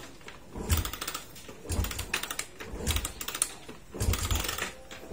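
Motorcycle being kick-started over and over, about one kick a second. Each stroke brings a short clatter from the engine, but it does not catch: hard starting, with the old dual-electrode spark plug still fitted.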